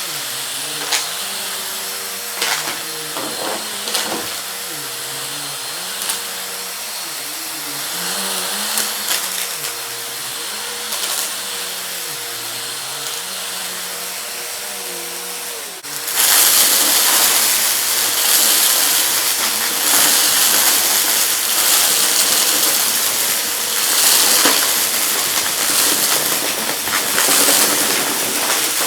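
Vacuum cleaner running, with scattered ticks and clatters of small hard debris. About halfway through, the sound changes abruptly to a louder, hissier steady run.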